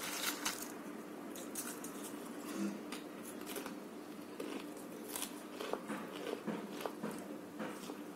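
A person crunching and chewing papdi gathiya, a crisp fried gram-flour snack, close to the microphone, with many small irregular crackles. A steady low hum runs underneath.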